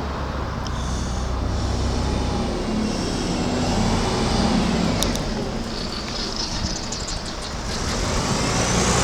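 Road traffic: motor vehicles running close by, with a steady low engine hum under road noise.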